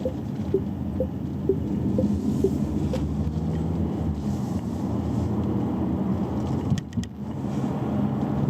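Steady road and drive rumble inside a moving Chery Omoda's cabin. For the first three seconds the turn-signal indicator ticks about twice a second, alternating between two pitches, then stops. A brief click is heard near seven seconds.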